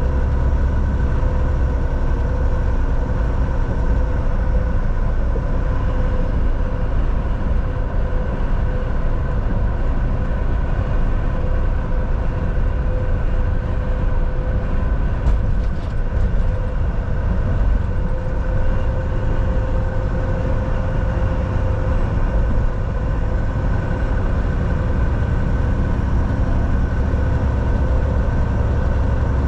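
Inside the cab of a Volvo VNL 760 semi-truck on the move: a steady low drone from the diesel engine and road, with a constant hum held over it.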